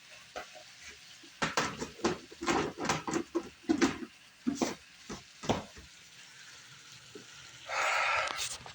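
Food sizzling in a cast iron skillet as spinach is stirred in, with a quick run of clicks and knocks of a utensil against the pan through the first half. A short, louder hiss comes near the end.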